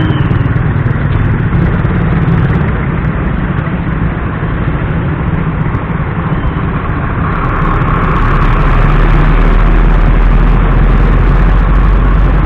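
Road traffic engines running in slow-moving traffic, a steady low rumble that grows louder and deeper about seven seconds in.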